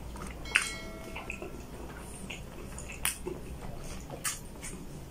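A person chewing a mouthful of food close to the microphone, with soft wet mouth noises and a few sharp smacking clicks: one about half a second in, others around three and four seconds in.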